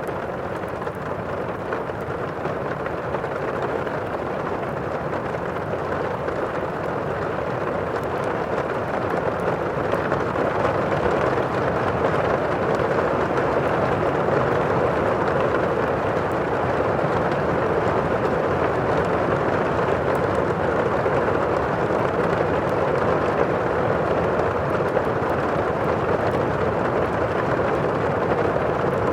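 Thunderstorm ambience: steady rushing rain with a low rumble of thunder that swells louder over the first ten seconds or so and then holds. Faint crackles sit on top.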